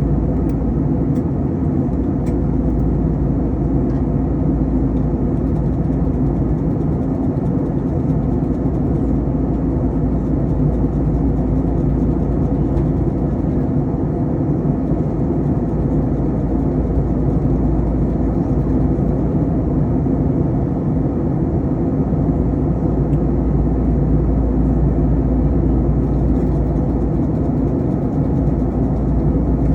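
Airbus A321 cabin noise in flight: a steady rush of airflow with the low drone of the jet engines underneath.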